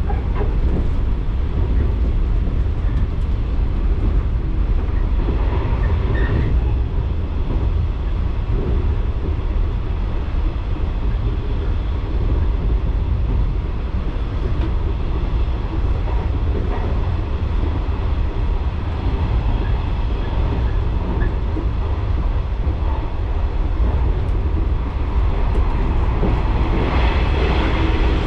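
Electric local train running along the line, heard from on board: a steady low rumble of wheels on rail and running gear.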